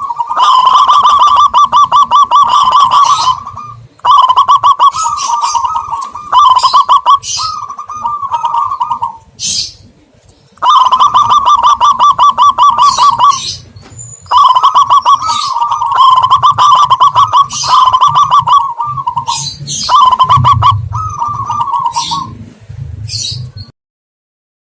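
Loud lure recording of doves calling: repeated bursts of fast rolling coo trills, each one to three seconds long, with short high chirps between them. It cuts off suddenly near the end.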